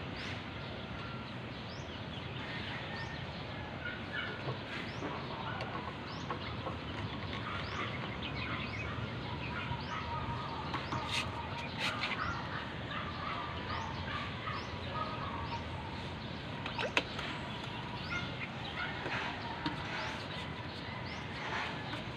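Birds chirping over and over against a steady background hiss, with a few sharp clicks or knocks about halfway through and again a little later.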